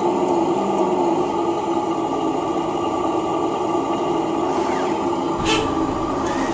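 Steady motor hum, holding one pitch throughout, with a short hiss about five and a half seconds in.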